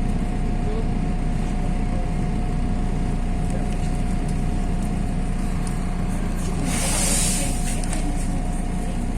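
MAZ-103.060 city bus heard from on board, its engine and drive running with a steady low drone and a constant thin whine. About seven seconds in there is a short hiss of compressed air from the bus's pneumatic system.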